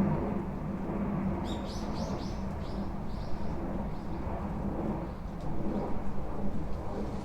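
Wind and rain with a steady low rumble beside a corrugated tin roof. About one and a half seconds in, a small bird gives a quick run of about seven high chirps that fade over two seconds.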